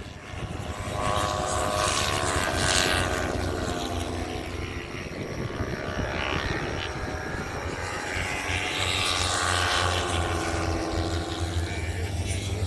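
Race motorcycle engines at speed going past, their pitch rising and falling as the riders work through the gears, one surge building about a second in and another around eight seconds in.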